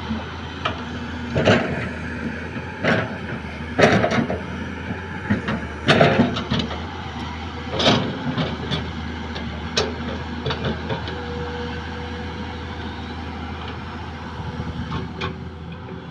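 Diesel engine of road-building machinery running steadily, with a series of loud clanks and knocks every second or two that thin out after about ten seconds.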